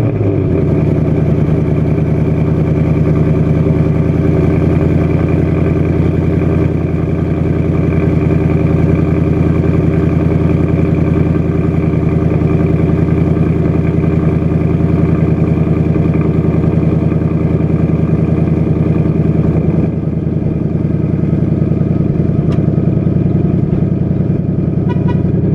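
Ford Mustang GT's 5.0 V8 on its stock exhaust, idling steadily just after a cold start.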